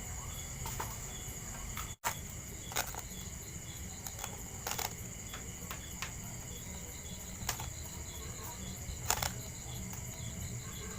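Steady high chirring of crickets over a low, even hum, with a few scattered light clicks.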